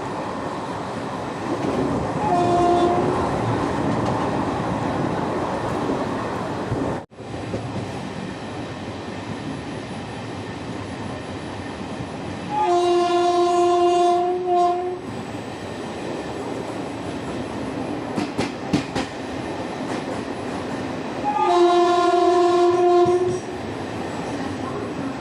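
Indian Railways express train running with a steady rumble. A locomotive horn sounds a short, faint blast about two seconds in, then two loud blasts of about two seconds each, one near the middle and one near the end. A few sharp clicks come a little after the middle.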